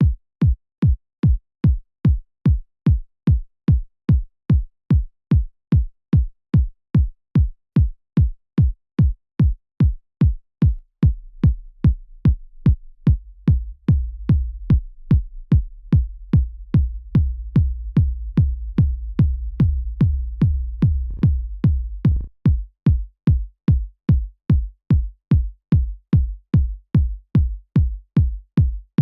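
A synthesized electronic kick drum looping at about two hits a second, each hit a punchy thump that drops quickly in pitch. About a third of the way in, a low sustained rumble builds up under and between the kicks. It flares brighter briefly, then drops away about three-quarters through, leaving the dry kick alone again.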